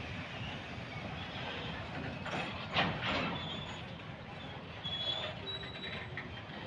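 Fuel tank wagons rolling slowly past on the rails, a steady rumble of wheels on track. About three seconds in comes a single sharp metallic clank, and near the end there are brief high squeals from the wheels.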